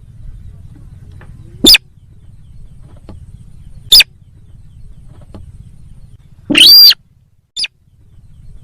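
Sintar sawah bird lure call played back loud and overdriven: two short sharp calls about two seconds apart, then a longer call rising and falling in pitch near the end, followed by a brief one. A low hum runs underneath.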